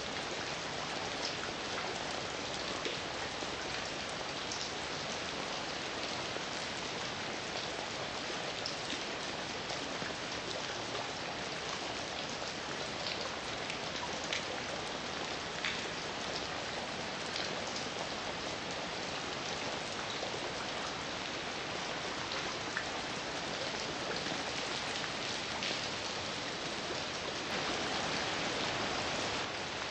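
Heavy rain falling steadily, a dense even hiss with individual drops ticking on a surface, swelling slightly a couple of seconds before the end.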